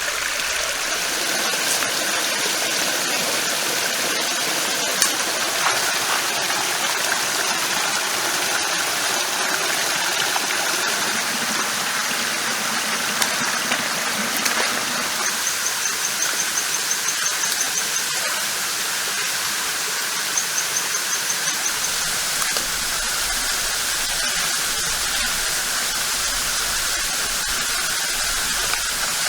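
Steady rushing of a forest stream, with two short, rapid, high-pitched trills about halfway through.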